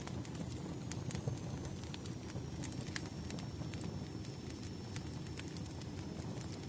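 Wood fire burning in a fireplace: a steady low rumble with irregular sharp crackles and pops of burning logs.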